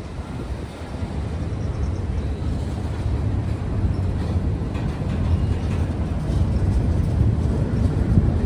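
A train going by with a steady low rumble that grows slowly louder.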